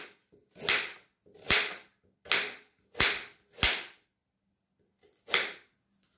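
Electric blender run in six short pulses, each about half a second, chopping pieces of fresh ginger; the last pulse comes after a pause of over a second.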